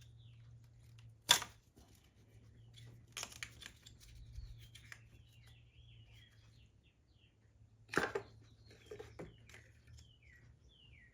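Small birds chirping in the background with short high calls that drop in pitch, broken by a few sharp clicks: the loudest about a second in, another about eight seconds in.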